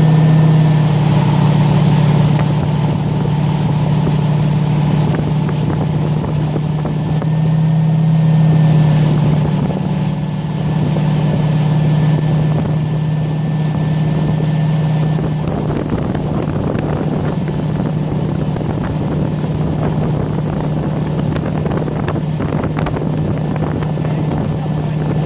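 Boat engine running steadily, a constant low hum, with wind and water noise over it.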